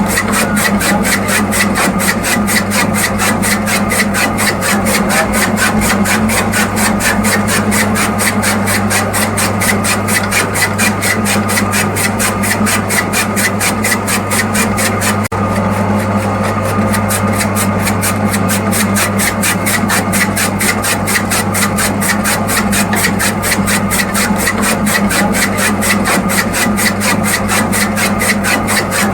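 Small motor of a model chaff-cutter machine running steadily with a fast, even rattle and a constant hum, broken once by a momentary dip about halfway through.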